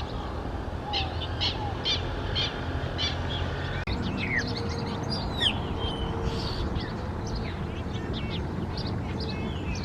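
Wild birds calling: a short note repeated about twice a second, then, after a sudden change at about four seconds in, a mix of chirps and downward-sliding whistles, over a steady low background noise.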